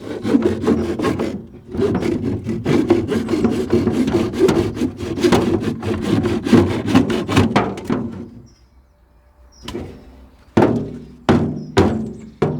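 Saw cutting through a plastic water barrel in rapid back-and-forth strokes, stopping about eight seconds in. Then come four separate sharp knocks on the plastic.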